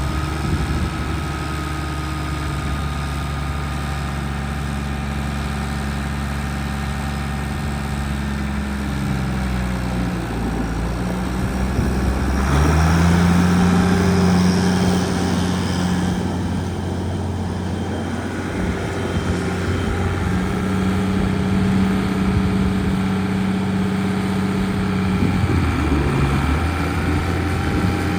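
Farmall 966 tractor engine running steadily. About twelve seconds in it speeds up a little and gets louder, then holds that speed apart from a brief dip near the end.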